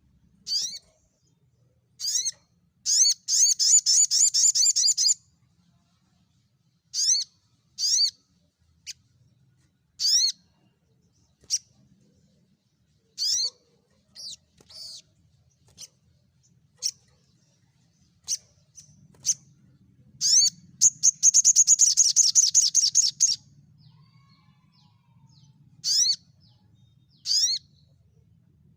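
Small songbirds giving sharp, high chirps, singly and in short clusters, with two long rapid trills, one about three seconds in and one about twenty seconds in.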